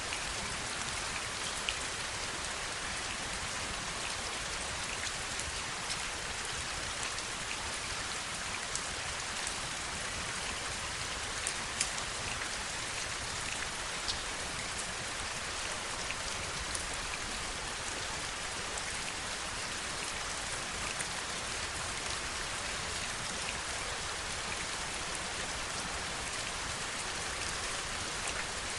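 Steady rainfall: an even hiss of rain with many small, sharper drop ticks scattered through it.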